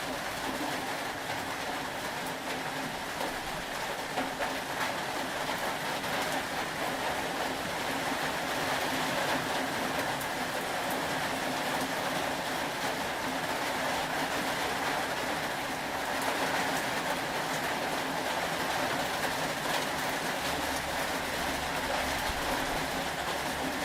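Steady rain ambience: an even, unbroken hiss of rainfall with a faint low hum beneath it.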